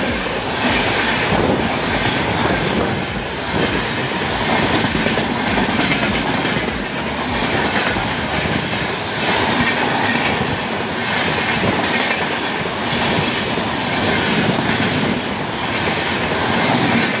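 Indian Railways passenger train of red LHB coaches passing close at speed: a steady rumble of wheels on rails with a rhythmic clickety-clack as the wheels run over the rail joints.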